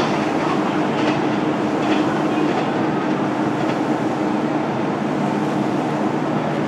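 Electric train sound: a steady hum with a few light clicks.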